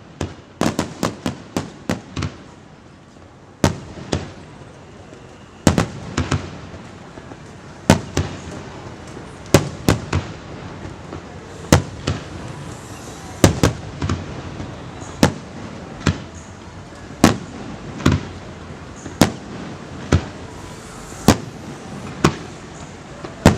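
Aerial fireworks shells bursting overhead. A quick cluster of bangs opens, then after a short lull come single loud booms about every one to two seconds, each trailing off in an echo.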